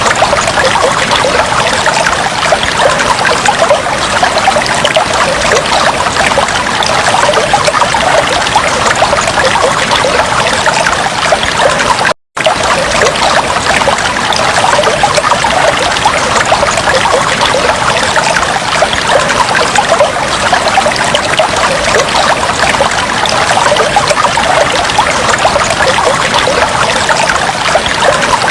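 Aquarium water bubbling and trickling steadily. The sound cuts out for a split second about twelve seconds in.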